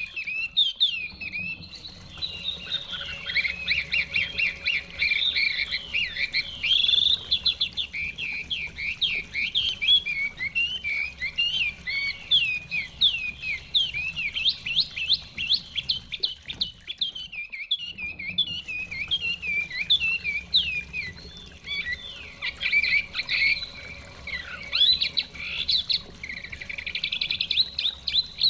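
Chinese hwamei (họa mi) singing a fast, varied run of whistled, sliding notes, over faint running stream water. The song stops for a moment twice, once near the start and once a little past halfway.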